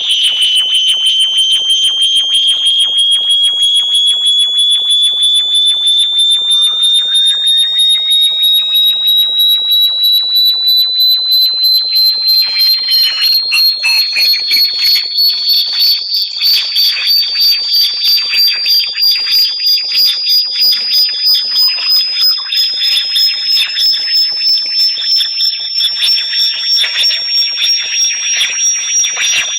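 Synthetic high-pitched electronic tone of a bat-repellent sound track, pulsing rapidly while its pitch climbs slowly and steadily. Fainter gliding chirps sweep up and down beneath it.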